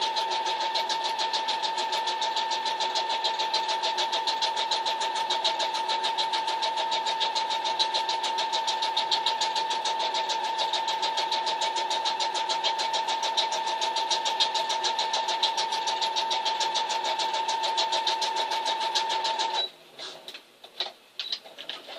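Electric sewing machine running steadily at speed, its motor whining and needle stitching rapidly through a dog food bag, then stopping abruptly near the end, followed by a few light clicks.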